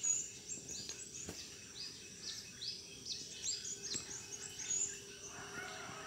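Birds calling at dusk: a run of short, high chirping notes repeated about three times a second, with several voices overlapping at different pitches.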